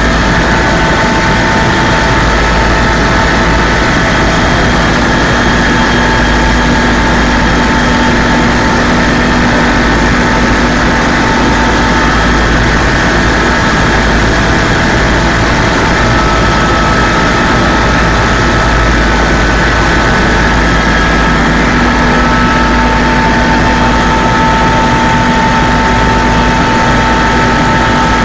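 Helicopter in flight: loud, steady engine and rotor noise with a deep rumble and a few held whining tones above it.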